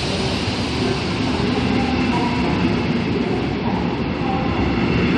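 Red double-deck S-Bahn Dresden coaches rolling past close by. A steady running noise of wheels on the rails, with faint tones riding on it.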